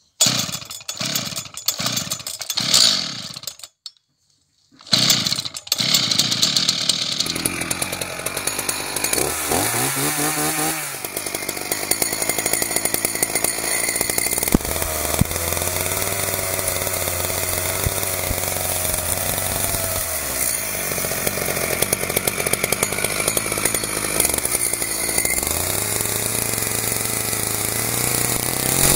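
A small engine running, its pitch rising and falling as it revs up, settles and revs up again. It is preceded by a few short separate sounds and a brief silence in the first five seconds.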